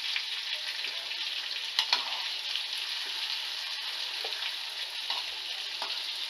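Stuffed brinjals frying in oil in a kadhai, sizzling steadily. A steel spoon scrapes and clicks against the pan a few times, the clearest about two seconds in, as the brinjals are turned over.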